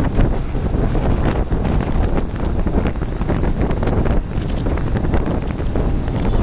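Heavy wind buffeting the microphone of a camera riding on a moving motorcycle: a dense, steady rush, strongest in the low end, broken by many short gusts.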